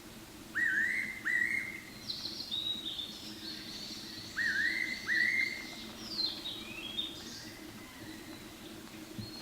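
Fairy pitta giving its loud two-note whistled call, 'po-pee, po-pee', twice; each note slides up and then holds. Higher, fainter bird chirps run in the background.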